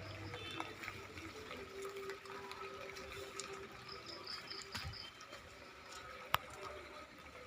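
Light drizzle falling, with water running and dripping, and one sharp tick about six seconds in.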